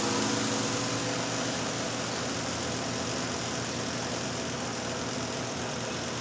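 Portable twin-tub washing machine's spin dryer running at speed: a steady motor whir and hum with no knocks, the load now balanced.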